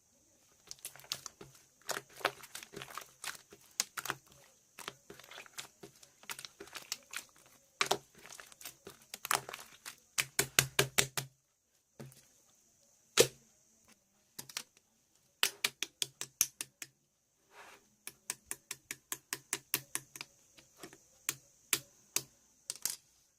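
Rapid sharp clicks and taps in bursts of several a second, with short pauses between runs, like typing, over a steady faint high hiss.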